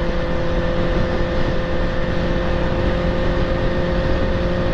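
Benelli TNT 600 inline-four engine running at steady highway cruising revs, its pitch holding level, under heavy wind rush on the microphone.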